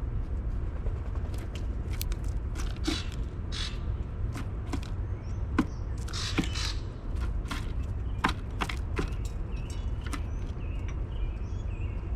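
A bird pecking and scattering seed on a wooden seed-tray feeder: irregular sharp taps and clicks, with a few short scratchy rustles of seed, over a steady low rumble.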